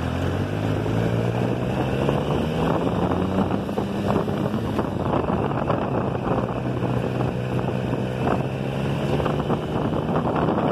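Motorcycle engine running under way, its pitch rising over the first few seconds and then holding steady at cruising speed, with wind rushing over the mounted phone's microphone.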